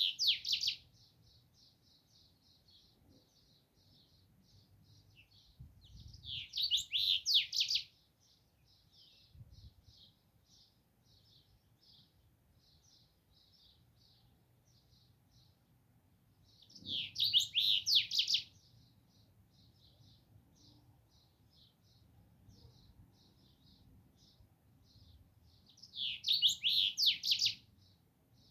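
A small songbird sings a loud, rapid, high-pitched phrase roughly every ten seconds. Between the phrases comes a steady run of soft, short chirps, about two a second.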